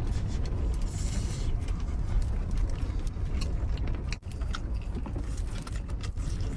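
Strong wind buffeting a small camper trailer: a steady low rumble, with light clicks and taps over it and a brief drop about four seconds in.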